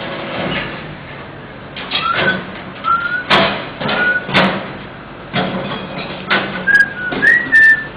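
Small pet parrot giving a series of short whistled notes, several gliding upward, the last two near the end drawn out a little longer. Sharp clicks and knocks fall between the whistles.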